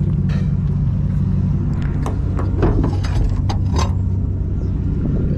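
Engine idling steadily with a low hum, and a run of knocks and clunks in the middle.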